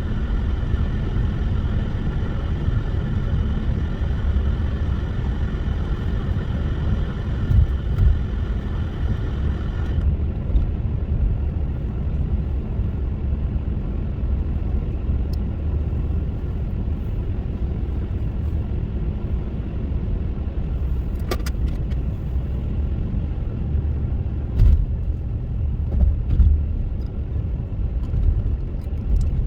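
Car driving through a snowstorm: a steady low rumble of engine and tyres, with a higher steady hum that cuts off abruptly about ten seconds in.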